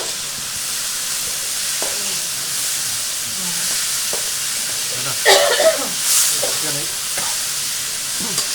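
Onion, spice and ginger-garlic paste masala sizzling in hot oil in a pan as it is stirred with a ladle, with a louder scrape or clatter about five seconds in.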